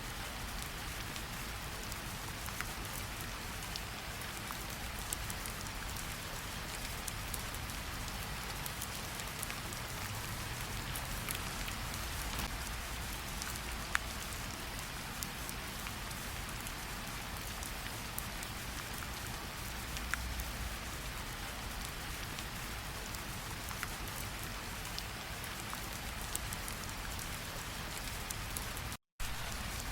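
Steady rain falling, an even hiss with scattered louder drops ticking now and then. The sound cuts out for a split second near the end.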